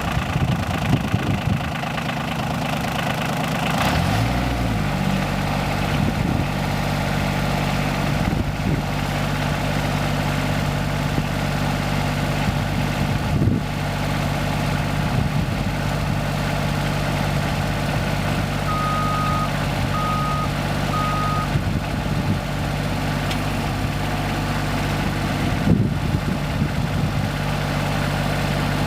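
Three-cylinder diesel engine of a 2006 New Holland TC26DA compact utility tractor running just after start-up; its speed shifts about four seconds in, then settles into a steady idle. Three short high beeps sound about two-thirds of the way through.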